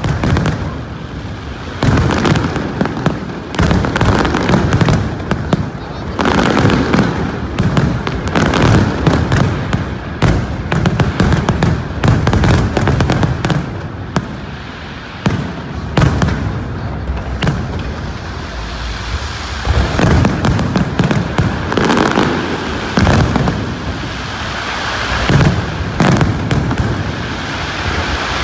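Fireworks display with shells bursting in quick succession: a continuous barrage of sharp bangs over deep booms.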